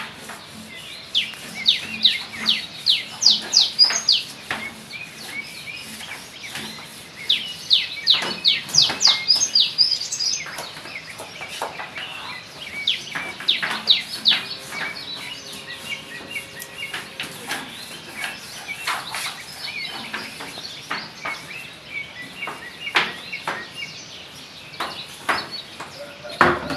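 Birds chirping: runs of quick, high, falling notes, several a second, coming in bursts a few seconds apart, with fainter scattered chirps between them.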